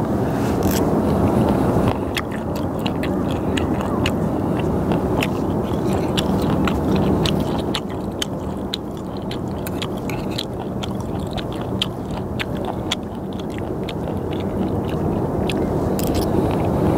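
Close-up chewing of slices of raw skate, with many small sharp clicks of metal chopsticks against the steel sauce tray and plate as a slice is dipped and picked up.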